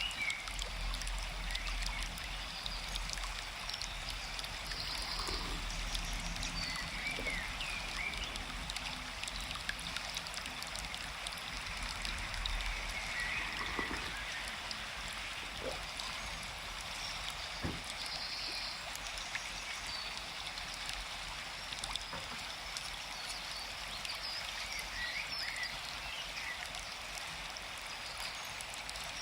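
A forest stream running steadily, with short bird chirps every few seconds.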